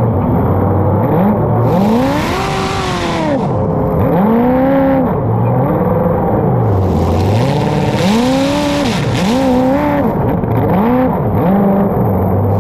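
Racing engine revving up and down repeatedly, its pitch climbing and falling every second or two as the vehicle accelerates and backs off through a run.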